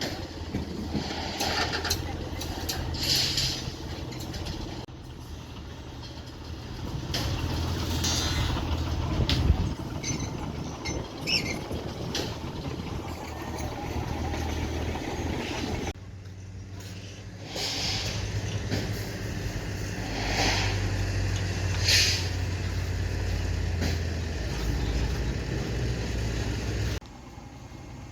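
Heavy earthmoving machinery working, its engine running with a steady low rumble broken by short sharp clanks. The sound changes abruptly several times.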